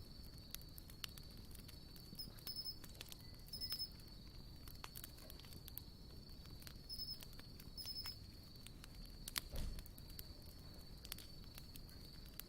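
Wood campfire crackling with scattered sharp pops, one louder pop about two-thirds of the way in. A steady high insect trill runs underneath, with short chirps above it now and then.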